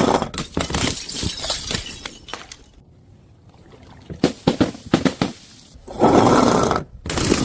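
Glass bottles shattering, with many sharp clinks of scattering shards between the smashes. A second loud smash comes about six seconds in, and another starts near the end.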